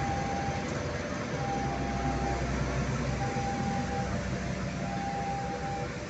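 A CC 201 diesel-electric locomotive and its passenger coaches rolling slowly past, with a steady engine rumble and wheel noise. Over it a level-crossing warning alarm sounds a repeating electronic tone, about a second on and a second off.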